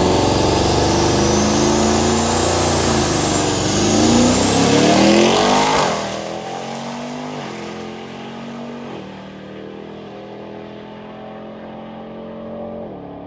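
A Ram TRX pickup's V8 launching and accelerating hard for about six seconds, with a high whine climbing in pitch. The engine sound then drops away as the truck runs off down the strip, its pitch falling at each upshift, three times.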